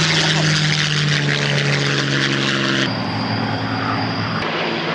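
Rolls-Royce Merlin V12 aero engines of Spitfires and Hurricanes running, a loud steady propeller-engine drone whose pitch sags slightly, then changes abruptly about three seconds in.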